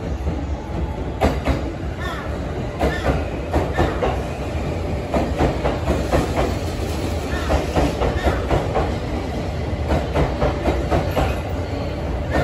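A Joban Line rapid electric commuter train running into the platform close by, with a steady low rumble and wheels clacking irregularly over the rail joints.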